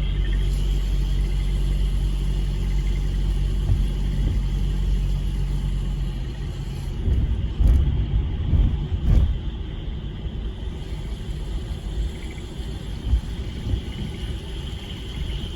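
Low rumble of a motor vehicle's engine running close by, steady for about six seconds and then giving way to uneven low thumps about seven to nine seconds in. Under it runs a steady high-pitched chorus of frogs.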